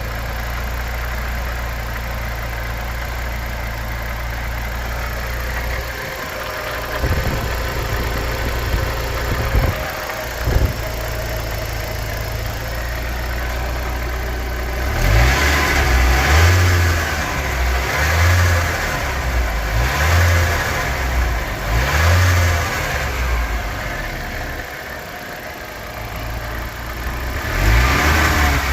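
Nissan 200SX S13's CA18DET turbocharged 1.8-litre four-cylinder engine idling roughly, with the idle wavering after about six seconds, then revved in a series of short blips through the second half.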